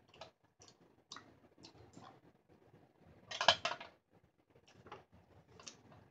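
Eating a tortilla wrap of chicken: scattered small mouth clicks and soft rustles of chewing and handling, with one louder rustle lasting under a second about three and a half seconds in.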